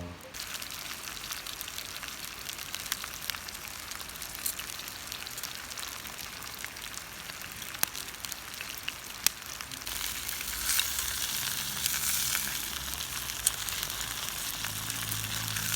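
A5 beef steak sizzling as it fries: a steady hiss with scattered sharp pops, growing louder about ten seconds in.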